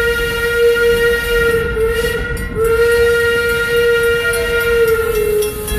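Steam locomotive whistle sounding a long, steady blast, briefly broken about two and a half seconds in and then held again, its pitch sagging slightly as it ends. The train's running rumble continues underneath.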